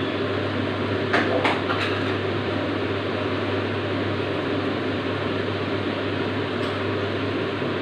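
Steady hiss of the giblet curry cooking in its pan on the stove, with a constant low hum underneath. A few light clicks, like a utensil against the pan, come between one and two seconds in.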